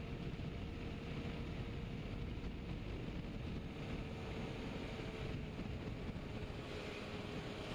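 Wind rushing over the rider's microphone with the helmet visor up as the motorcycle runs steadily at speed, with a faint steady hum through it.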